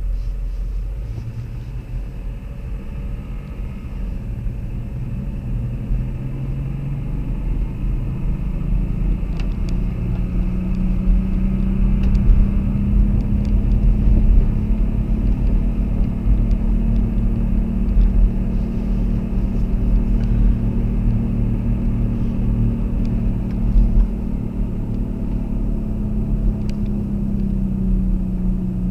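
Car driving along: low engine hum over steady road rumble, the engine note rising about a third of the way in, holding, then easing off near the end.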